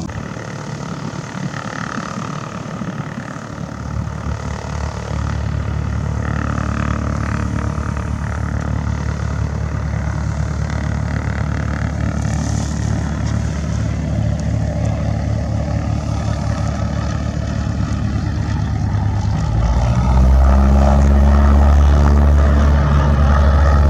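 Propeller airplane engine running, a steady low drone that grows louder about twenty seconds in.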